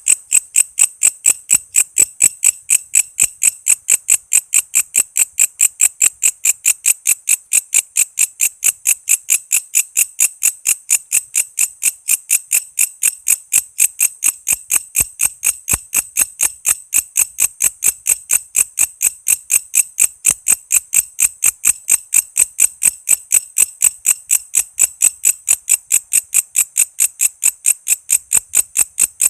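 Walang kece insect calling: a loud, very regular chirping of short pulses, about four a second, kept up without a break.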